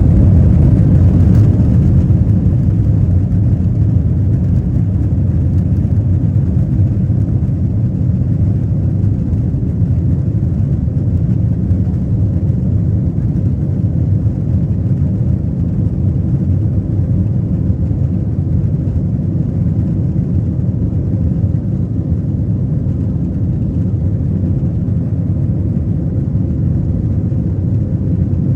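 A vehicle engine running steadily: a loud, even, low rumble that does not change.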